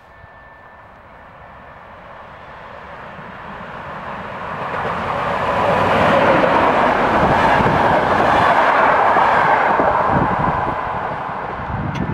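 EP07 electric locomotive hauling passenger coaches through the station without stopping. The rumble of wheels on rail builds over about six seconds, stays loud while the locomotive and coaches pass, then fades.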